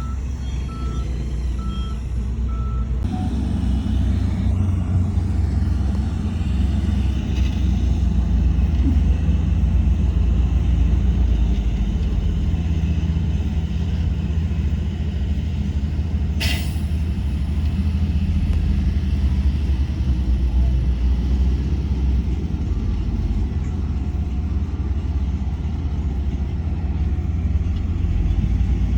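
Heavy diesel earthmoving machinery running with a steady low rumble, and a reversing alarm beeping evenly for the first few seconds before it stops. About halfway through there is one brief sharp noise.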